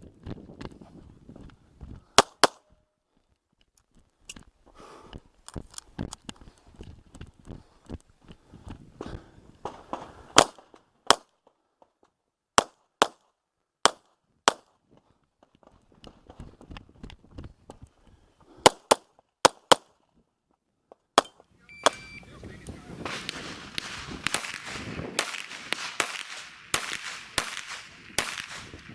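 Handgun shots fired mostly in quick pairs, IPSC-style double taps on targets, with pauses of a few seconds between strings. Over the last several seconds a stretch of steady noise rises under more shots.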